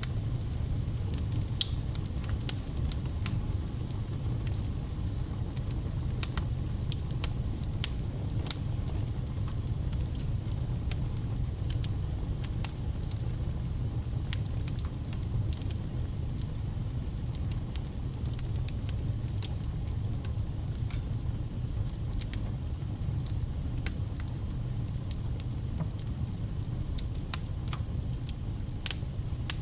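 Wood fire of burning logs, with a steady low rumble and frequent sharp crackles and pops scattered irregularly throughout.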